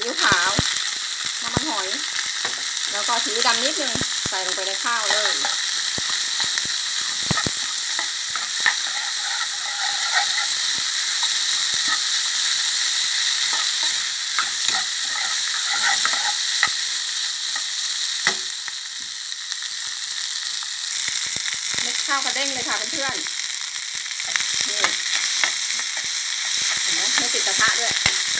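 Fried rice sizzling in an oiled non-stick wok as a metal spatula stirs and tosses it, with repeated scraping and knocking strokes of the spatula against the pan over a steady frying hiss.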